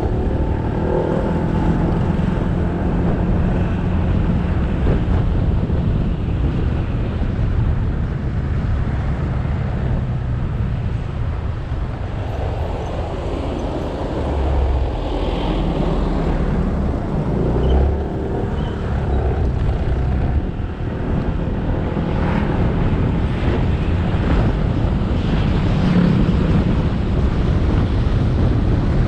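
Motorcycle engine running under way with road noise. The engine note eases off about twelve seconds in and picks up again a couple of seconds later.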